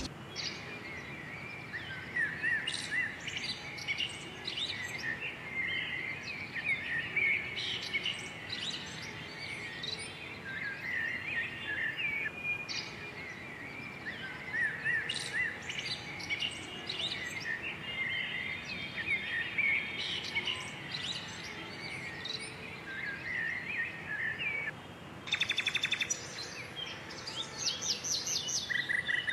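A flock of baya weavers chattering together: many overlapping short chirps and twitters, with a fast buzzy trill about three quarters of the way through.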